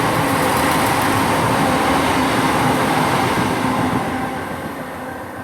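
Chiltern Railways Class 168 diesel multiple unit passing through the station at speed without stopping: a loud rush of wheels on rail and the diesel engine, dying away after about four seconds as the train recedes.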